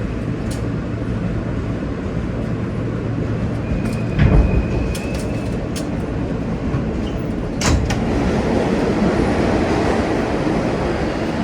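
New York City subway train running, heard from inside the car: a steady rumble with a heavy clunk about four seconds in, joined by a brief high-pitched squeal, and another clunk near eight seconds, after which the running noise grows louder.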